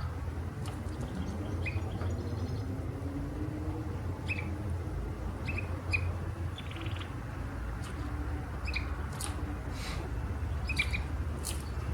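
Canary chirping in short, scattered notes, with a brief rapid trill about a second in and another a little past the middle, over a steady low hum.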